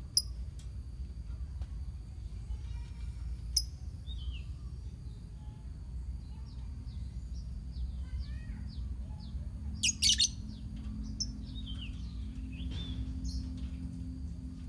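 A colony of lovebirds calling: scattered sharp, high chirps and a quick run of short descending chips. The loudest burst of shrill calls comes about ten seconds in. A steady low hum runs underneath.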